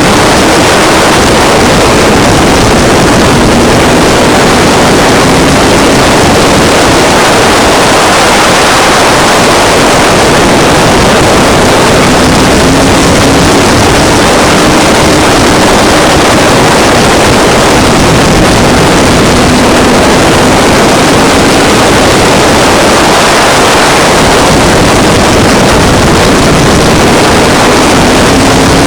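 Loud race-truck engines lapping a short oval, the engine pitch climbing and falling again in a repeating cycle every several seconds as they accelerate down the straights and back off for the turns.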